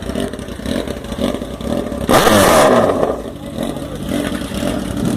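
Chevrolet Omega's six-cylinder engine running at idle, revved hard once about two seconds in, then settling back down to idle.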